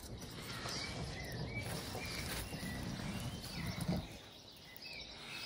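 Small birds chirping faintly in short, repeated calls, with soft handling of a wooden spoon in an earthenware bowl and a light knock about four seconds in.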